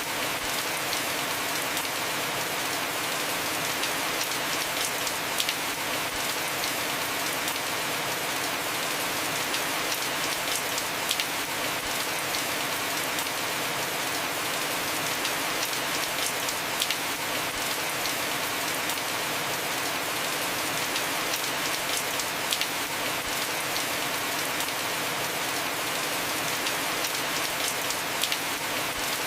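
Heavy rain falling steadily on a roof: an even hiss with scattered sharp drop hits throughout.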